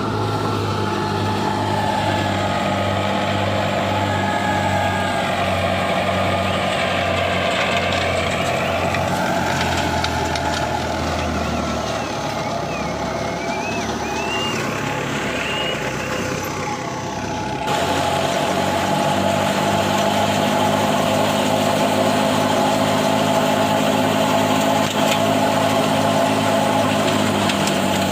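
Heavy farm machine's diesel engine running steadily at a constant speed, with the sound changing abruptly about two-thirds of the way through.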